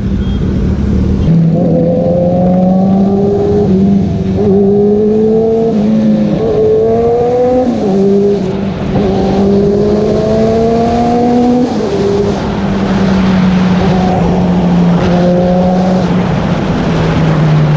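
Superbike engine under way, its pitch climbing steadily and then dropping at each gear change as the bike accelerates through the gears, with road and wind noise underneath.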